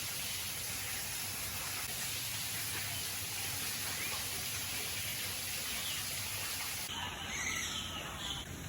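Bird-park ambience: a steady high-pitched hiss with a few faint bird chirps. About seven seconds in the hiss cuts off abruptly and several short bird calls follow.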